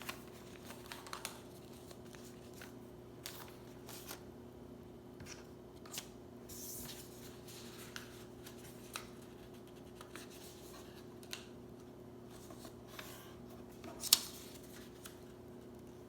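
A sheet of paper being handled, folded and creased by hand to make a paper airplane: faint scattered crinkles and soft ticks, with a sharper crackle about 14 seconds in.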